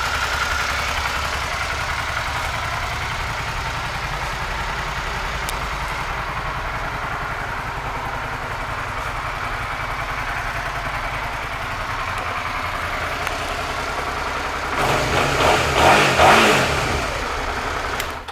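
Suzuki SV650S's 645 cc 90-degree V-twin idling steadily, then revved in a few blips for about two seconds near the end before cutting off.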